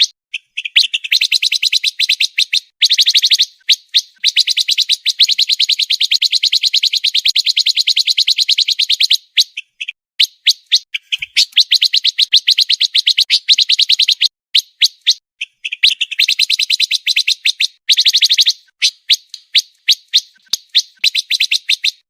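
Pancawarna songbird singing a fast, tightly packed trill: long runs of rapid repeated high notes lasting several seconds each, broken by short pauses and a few scattered single chirps.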